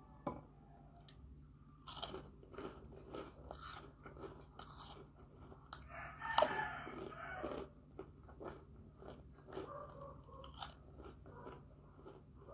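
A person biting and chewing crunchy puffed snacks close to the microphone: many short crisp crunches begin about two seconds in, the loudest bite comes a little after six seconds, and chewing goes on more quietly near the end.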